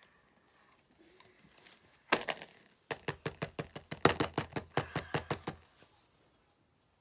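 A quick run of sharp clicks and taps from fidget toys being handled, about five or six a second, starting about two seconds in and stopping a little before the end.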